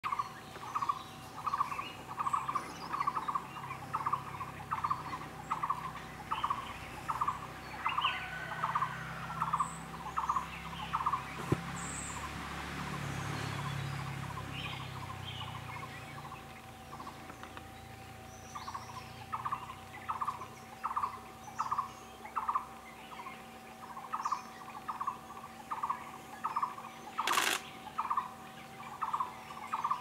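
A bird calling one short note over and over, nearly two a second, breaking off for several seconds around the middle and then resuming. A steady faint hum lies underneath, and a single sharp click comes near the end.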